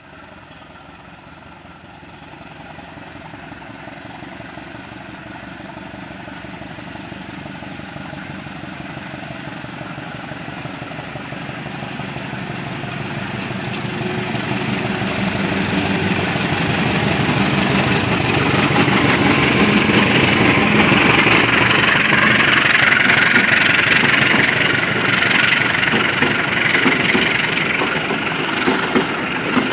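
A diesel-hauled passenger train approaching: locomotive engine and running noise growing steadily louder for about eighteen seconds, then holding loud as it draws level, with sharp wheel clicks over the rail joints starting near the end.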